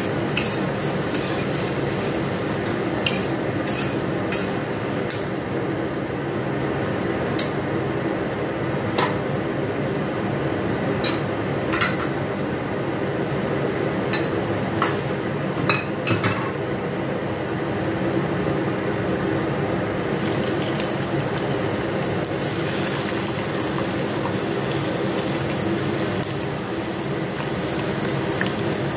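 Bell peppers and mushrooms frying steadily in a steel wok on a gas burner, with sharp clinks and scrapes of a metal spatula against the wok scattered through the first half, then fewer.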